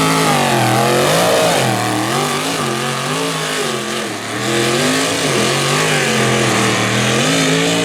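Tractor-pull engine under load, its revs surging up and falling back over and over instead of pulling cleanly, then settling to a steady pitch near the end. It falls on its face and still needs more adjusting.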